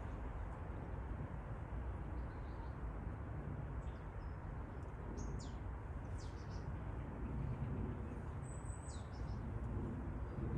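Small birds giving a few scattered high, thin calls, short downward-sliding notes, over steady low background noise.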